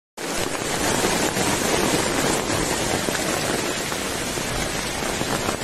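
Heavy downpour over a flooded street covered in hailstones: a steady, dense hiss of falling rain and running water.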